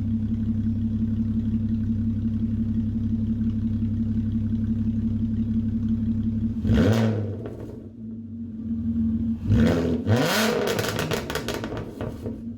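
A VW Mk4 R32's 3.2-litre VR6 engine idling with no exhaust system fitted, running loud and open. It is blipped twice, about seven seconds in and again about ten seconds in; the second rev is longer and sharper before the engine drops back to idle.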